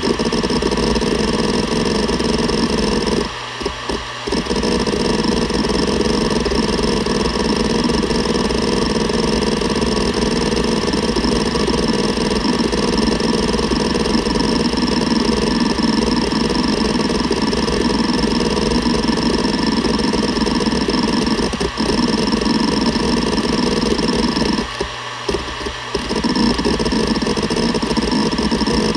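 Seagate Barracuda ES.2 ST31000340NS 7200 rpm hard drive seeking rapidly and continuously: a dense chatter of head-actuator clicks over the steady tone of the spinning drive. The seeking stops briefly twice, about three seconds in and again about 25 seconds in.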